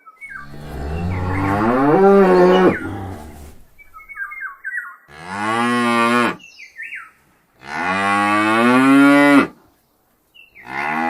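Domestic cow mooing: three long moos a few seconds apart, the first the longest, and a fourth beginning near the end.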